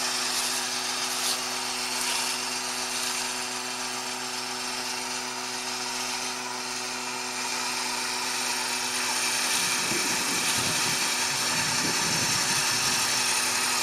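Tractor's motor running at a steady pitch with a high whine and hiss while it is driven, with some extra low rumbling for a few seconds near the end.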